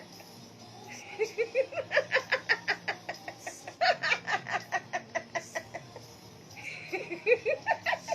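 Hearty human laughter, rapid 'ha-ha-ha' bursts about five a second, in a long bout and then a second bout near the end after a short pause.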